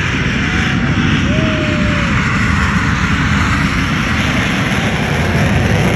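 Jet aircraft engine noise: a loud, steady rumble with a broad rushing hiss above it, with a few faint gliding tones in the first two seconds.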